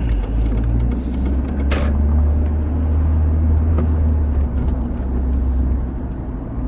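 Steady low rumble, with a short burst of hiss-like noise about two seconds in.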